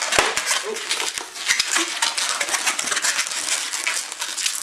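Latex modelling balloon being twisted and pinched by hand, rubbing and squeaking in a dense, continuous run of small squeaks and crackles.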